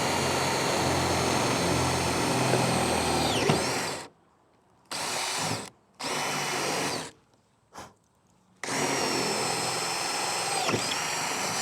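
Electric drill boring a 5/16-inch hole through an aluminium crossbar. It runs steadily for about four seconds and stops, gives two short bursts, then runs steadily again for about three seconds until the bit goes through. Each time the trigger is released the whine drops in pitch.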